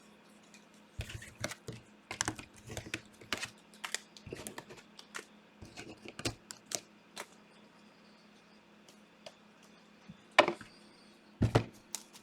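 Typing on a computer keyboard: a run of quick keystroke clicks for several seconds, then a pause and two louder knocks near the end.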